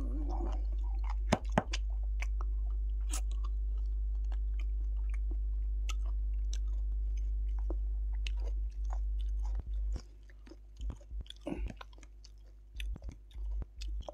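A person chewing a mouthful of food in a close-miked eating show: wet smacking and many short clicks of the mouth and lips. A steady low hum runs underneath and drops away about ten seconds in.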